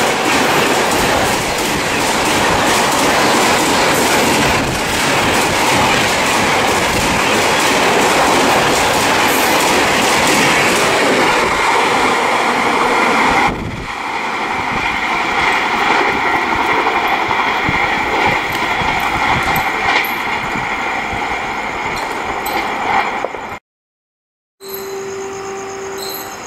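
Rajdhani Express coaches rushing past close by at speed, a loud rolling rumble with wheel clatter. About halfway through it drops suddenly to a quieter, steady train rumble, and near the end, after a short gap of silence, a steady pitched tone sounds.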